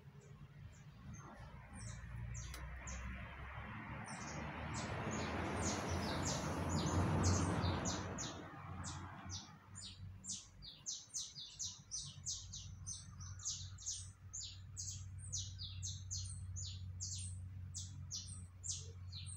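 A bird chirping rapidly and repeatedly in short, high chirps that come thicker in the second half. Earlier, a broad rushing noise swells to a peak about seven seconds in and fades away by about ten seconds.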